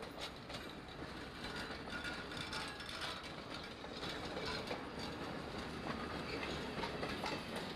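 Excursion train rolling along the track, with a steady rumble and rapid irregular clicking and rattling from the wheels and running gear that grows slightly louder.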